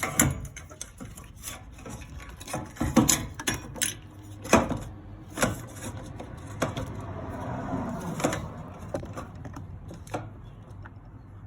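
Irregular knocks, clicks and rubbing of hands and tools handling fuel pump parts and hose clamps during reassembly, with a faint steady low hum underneath.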